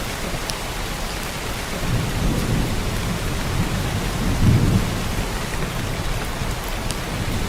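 Heavy rain pouring down in a steady hiss, with low rumbles swelling beneath it from about two seconds in, loudest around the middle.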